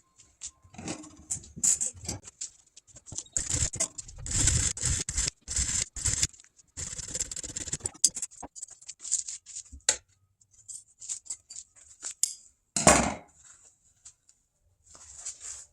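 Upholstery material rustling and scraping as it is handled at the workbench, with short sharp clicks and snips, the loudest about 13 seconds in.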